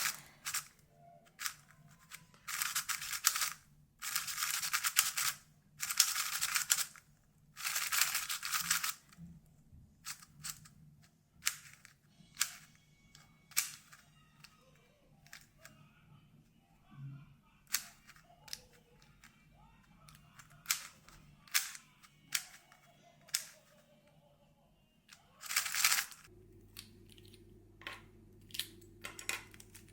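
X-Man Tornado V3 magnetic 3x3 speedcube being turned: quick runs of rapid clicking turns lasting about a second each, mostly in the first ten seconds and again near the end, between single sharp clicks of separate turns. The cube feels quite dry, running on little lubricant.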